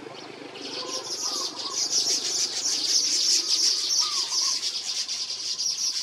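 Birds calling: a dense, high, rapid chatter that comes in about half a second in and holds, with a short slurred note standing out twice, about three seconds apart.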